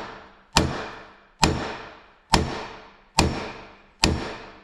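Heavy hammer blows, about six at a steady pace of a little under one a second, each with a short metallic ring, driving a stuck shaft out of a 1985 Yamaha Tri-Z engine case. The bearing is being pulled out along with the shaft.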